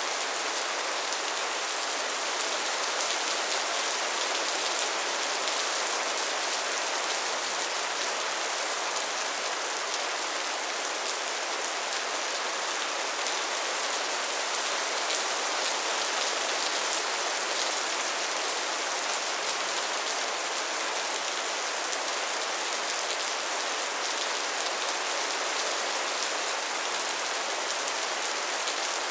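Soft rain falling steadily, an even patter of many small drops.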